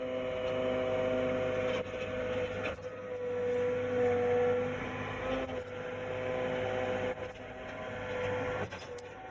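Hydraulic log splitter running steadily, its motor giving a held, slightly wavering whine, with a few sharp knocks along the way.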